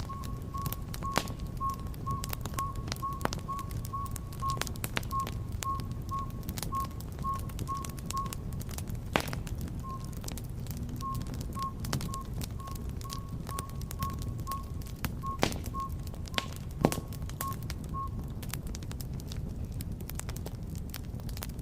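Wood fire burning in a fireplace: a low rumble of flames with scattered sharp crackles and pops. Over it, a short high peep repeats about three times a second, pauses briefly in the middle and stops near the end.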